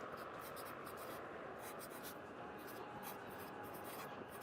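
Pencil writing on paper, in short, irregular scratchy strokes, over a steady hum of city traffic ambience.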